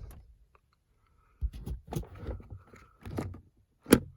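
Handling noises at the glove box and owner's manual: a few soft thumps and rustles, then one sharp knock near the end.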